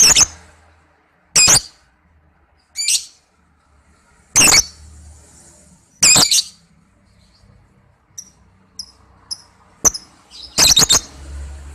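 Lovebird giving short, shrill calls about every one and a half seconds, with a few small, quieter chirps about two thirds of the way in and a quick double call near the end.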